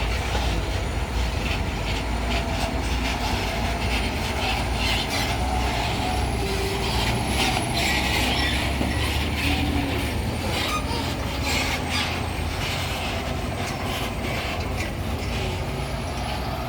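Heavy truck engine running low and steady under load, with many short knocks and rattles from the truck over rough ground.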